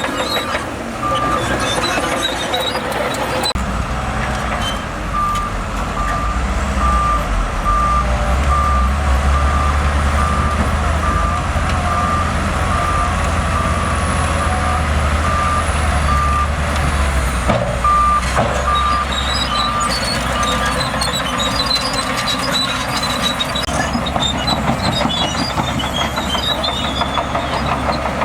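Reversing alarm on a heavy earthmoving machine beeping at a steady rate of a little more than one beep a second, stopping and starting a few times, over the low, steady running of a heavy diesel engine, with a metallic clank about eighteen seconds in.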